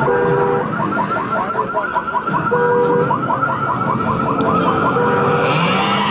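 Electronic alarm siren warbling rapidly up and down, with a short steady beep sounding three times, about every two and a half seconds.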